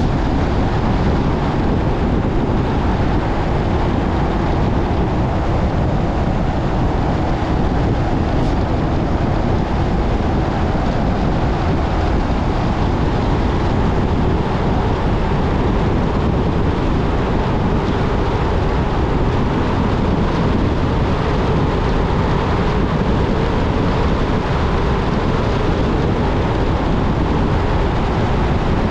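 A car being driven at steady speed: continuous road, tyre and wind noise with no change.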